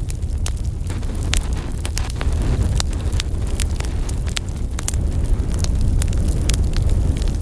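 Wood logs burning in a fireplace, crackling with frequent irregular sharp pops over a steady low rumble from the flames.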